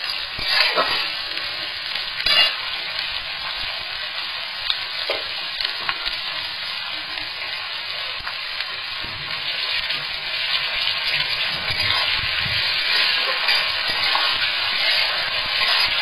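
Carrots, beans and cashews sizzling in hot oil in a metal kadai, with a steel spatula scraping and clinking against the pan as it stirs. A couple of sharper knocks come in the first few seconds, and the sizzle grows a little louder in the second half.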